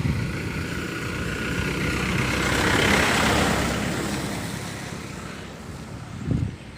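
A motor vehicle passing close by, its engine and tyre noise swelling to a peak about three seconds in, then fading away. A short low thump comes near the end.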